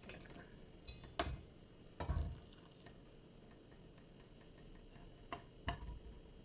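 A few scattered clicks and knocks of a cooking pot and utensils being handled, the sharpest a little over a second in, with a dull thump about two seconds in and two softer clicks near the end.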